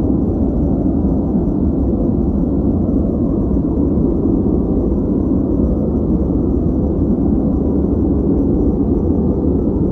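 Steady noise track with no changes, deep and rumbling rather than hissy.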